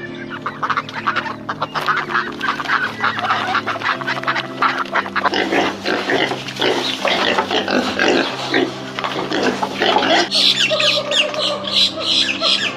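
A flock of waterfowl calling, many rapid harsh calls overlapping over steady held low tones. About ten seconds in, the calls turn higher-pitched.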